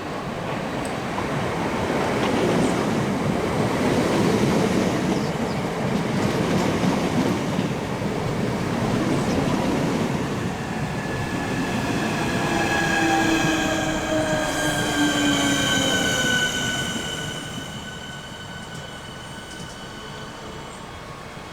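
An electric multiple unit train on the track, with a loud rumble of wheels on rails. From about halfway through, a whine of several tones joins in and falls slowly in pitch, then the sound fades away near the end.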